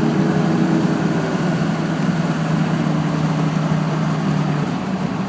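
The 6.6-litre Duramax turbo-diesel V8 of a 2001 Chevrolet HD 2500 pickup pulls under light throttle while driving, heard from inside the cab. It is a steady drone, and its pitch changes about four and a half seconds in.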